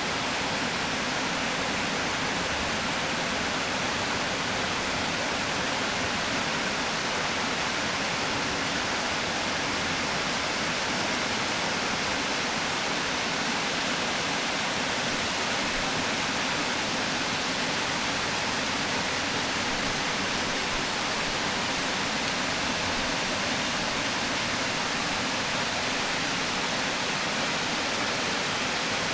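Water pouring steadily over a river weir: a constant, powerful rushing that does not change.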